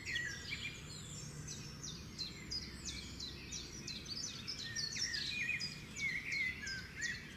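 Birds singing and chirping: a dense run of quick high chirps and short falling whistles from several birds, over a steady low background rumble.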